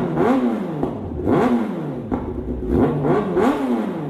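Kawasaki ZX-10R inline-four sportbike engine blipped through its loud exhaust, about four quick revs, each one rising sharply in pitch and falling back down.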